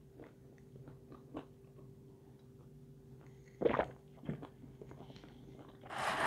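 A woman quietly chewing pizza with her mouth closed, close to a clip-on microphone, with soft mouth clicks over a faint steady hum. A louder short sound comes a little past halfway, and a brief rustle near the end.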